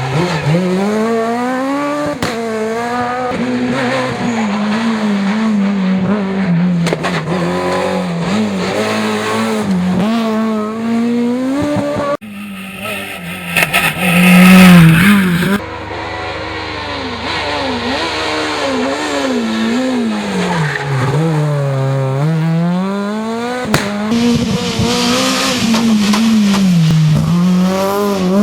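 Rally cars at full throttle on a special stage, engines revving up and dropping again and again through gear changes and corners, with some tyre squeal. The loudest moment is a close pass about halfway through.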